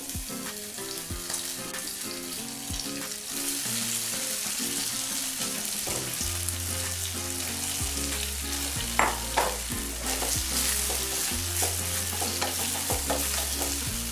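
Idli pieces sizzling as they fry in hot oil with a mustard-seed and curry-leaf tempering in a nonstick pan. The sizzle gets louder about three seconds in, with a couple of sharp taps near the middle.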